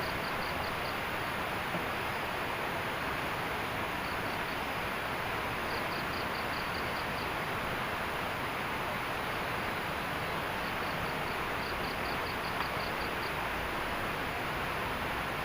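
Steady hiss of heavy rain falling. Over it, a high chirping in short runs of about five pulses a second comes three or four times.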